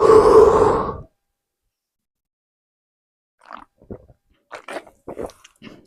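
A person drinking iced tea: a loud burst of mouth sound lasting about a second at the sip, then quiet, then a scatter of soft mouth clicks and swallowing sounds from about three and a half seconds in.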